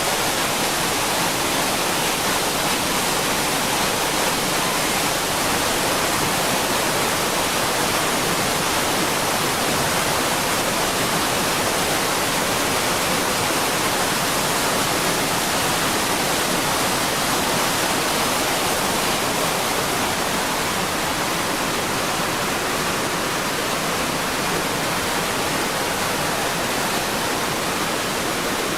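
Floodwater torrent rushing, a steady loud roar of water without a break.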